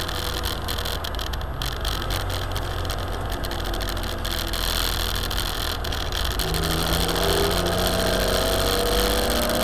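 Simca 1000's rear-mounted four-cylinder engine heard on board at speed, with steady road and wind rumble. For the first six seconds the engine note is weak. It comes back clearly about six and a half seconds in and rises steadily as the car accelerates out of a corner.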